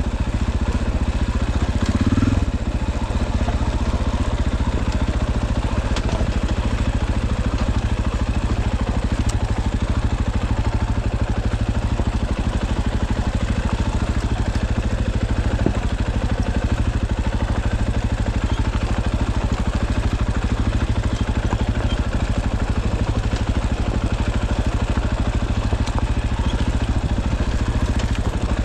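Dirt bike engine running steadily at low revs, with a brief rise about two seconds in.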